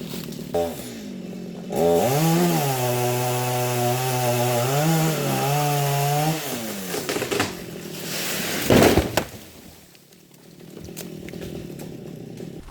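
Stihl MS 250 two-stroke chainsaw revving up about two seconds in and running fast for some four seconds, its pitch rising and dipping, then dropping away. A short loud rush of noise follows near the end, then it goes quieter.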